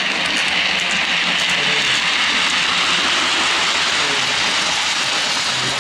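OO-gauge model train running along the layout's track close by, a steady whirring rolling noise with faint clicks over it, easing off near the end.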